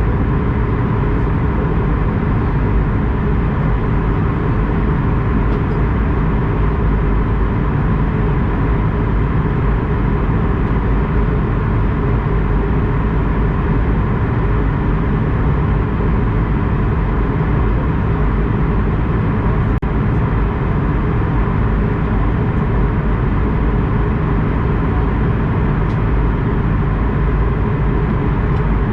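Airbus A220-100's Pratt & Whitney PW1500G geared turbofan engines running, a loud, steady drone that is heaviest in the low end, with a faint steady tone above it.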